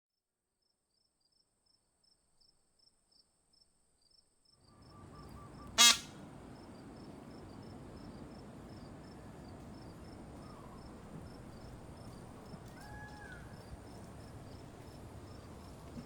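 High insect chirps repeating about three times a second over steady outdoor ambience, which fades in about four and a half seconds in. A single loud, short honk comes about six seconds in, and faint bird calls follow later.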